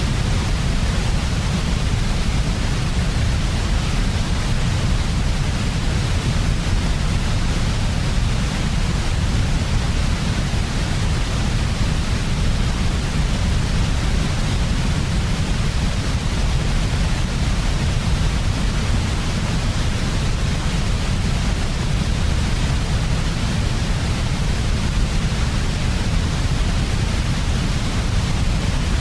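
Steady white noise for infant sleep: an even, unbroken hiss with a heavier low rumble beneath it, unchanging throughout.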